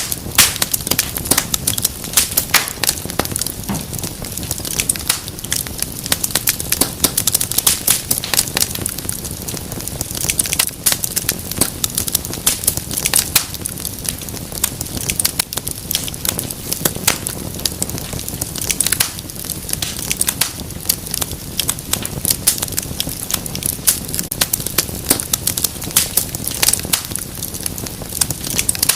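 Wood fire burning with steady, dense crackling and popping over a low hiss.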